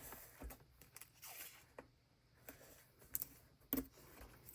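Scattered soft clicks, taps and rustles of paper and tape being handled and pressed down on a journal page.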